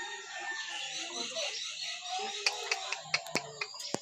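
Pet parrot chattering softly, with a run of sharp clicks in the second half, the loudest near the end.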